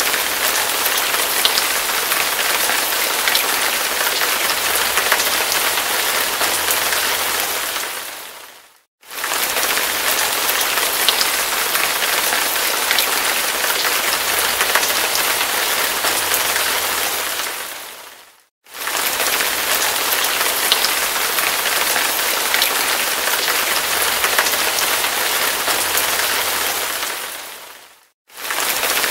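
Hard rain falling in a steady downpour, an even hiss with scattered sharper drop hits. The sound fades out completely for a moment and comes back three times, about every nine and a half seconds.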